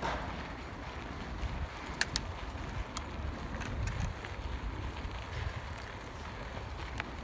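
Riding a bicycle: wind rumbling on the microphone and tyre noise, with a few sharp ticks and rattles scattered through it.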